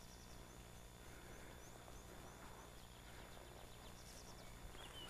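Near silence with faint bird calls: a quick run of short, high, falling chirps about half a second to two seconds in, and more high calls near the end.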